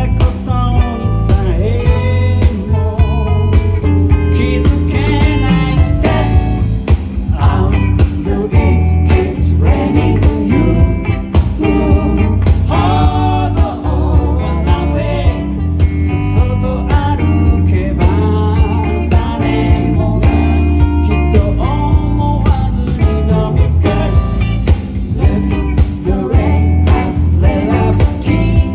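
Live pop-rock band playing a song with a lead singer, over a heavy bass line and a steady beat.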